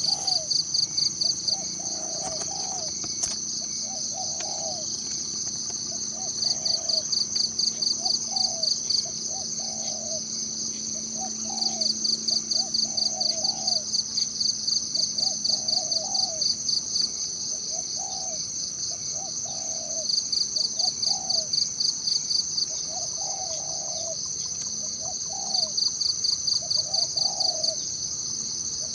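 Forest insects and a bird. A steady high-pitched insect drone runs throughout, and every few seconds a burst of rapid pulsed chirping, about eight pulses a second, lasts two to five seconds. Over it a bird repeats a short, low, falling call note roughly once a second.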